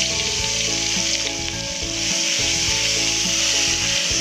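Ground chili, shallot and garlic spice paste dropped into hot oil in a wok: it starts sizzling suddenly as it goes in and keeps frying steadily while a metal spatula stirs it.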